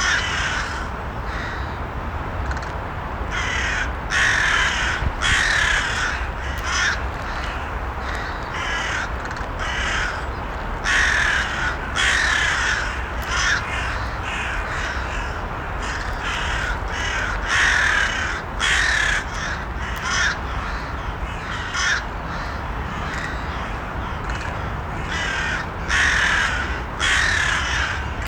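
Crows cawing repeatedly, harsh calls coming one after another in irregular runs, over a steady low background hiss.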